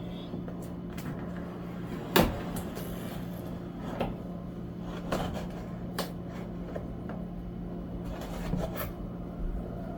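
Cardboard box of a new air fryer being opened and unpacked by hand: flaps and packaging rubbing and scraping, with scattered knocks, the loudest about two seconds in.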